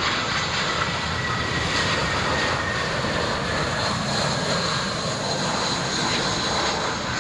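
Airbus A319 jet airliner's engines running as it passes, a steady, loud rush with a faint whine that slowly falls in pitch.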